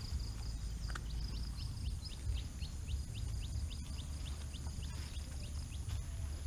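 A bird calling in a long, rapid run of short, falling chirps, about four a second, that fades out near the end.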